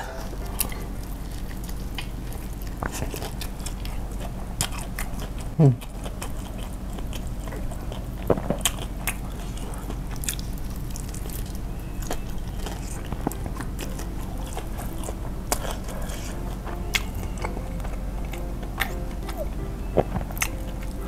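Crispy fried chicken being bitten and chewed close to a clip-on microphone: irregular crackly crunches over steady chewing. A loud, short falling sound comes about six seconds in.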